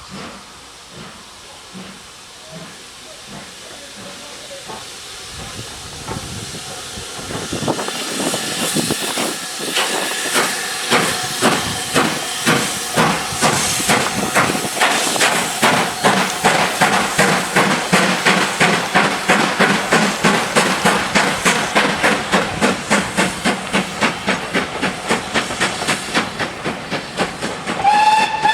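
Steam locomotive working hard with a steady chuff, its exhaust beats starting faint and growing louder and quicker as it gathers speed. Right at the end a whistle begins to sound.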